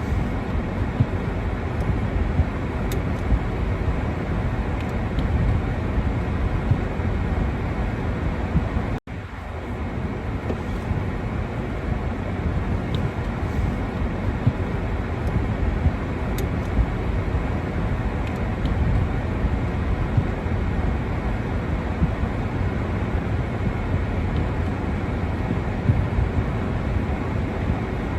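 Steady low outdoor rumble with no speech, cutting out abruptly for a split second about nine seconds in.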